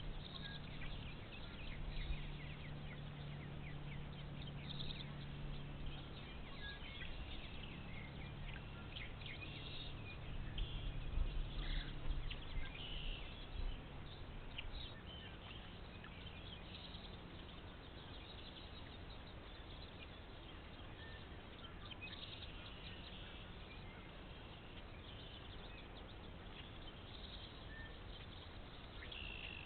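Wood duck ducklings peeping: many short, high chirps throughout, over a faint steady low hum that fades out a little past halfway, with a few low bumps around the middle.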